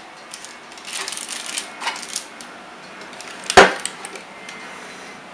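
Tableware handled while a chicken curry puff and boiled beans are plated: faint scraping, then one sharp clack about three and a half seconds in.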